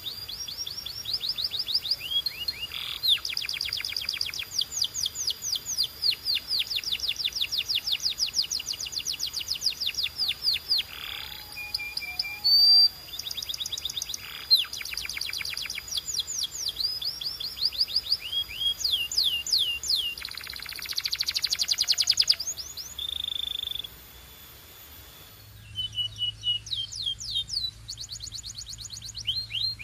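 Canary singing: long trills of rapidly repeated down-slurred notes, broken by a held high whistle and a short buzzy note. Near the end the background changes abruptly and a low hum comes in under the trills.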